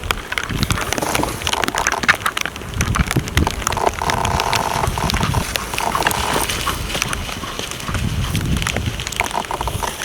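White-tailed bucks fighting: sharp clicks and clacks of antlers and hooves, with a drawn-out vocal call from a buck about four seconds in and again around six and nine seconds.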